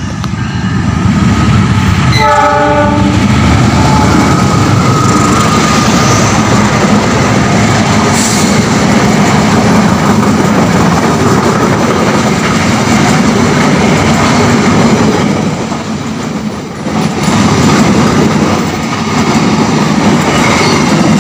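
Diesel-hauled passenger train passing close at speed: a steady loud rumble with the clickety-clack of wheels over the rail joints. The locomotive sounds a short pulsing signal about two seconds in.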